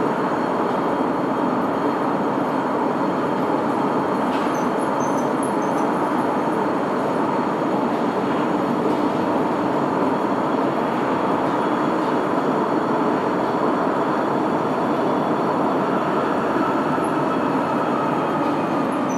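Sapporo Municipal Subway Namboku Line 5000-series rubber-tyred train running at steady speed, heard inside the car: a constant, even running noise of tyres and traction motors with no change in pace.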